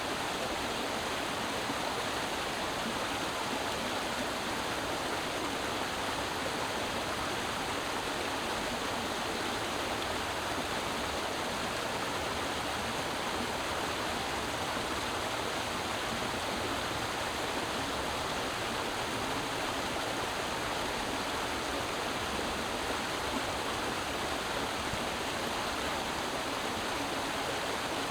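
Creek water rushing and splashing over rocks in a steady, even flow.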